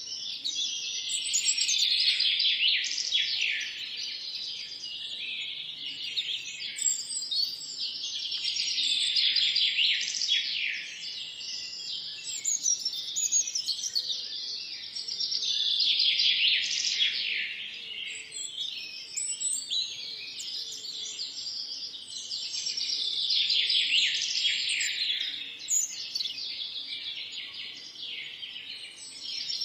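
A chorus of many songbirds chirping and singing at once, a dense overlapping mix of high, quick notes. It swells and fades in waves every seven or eight seconds.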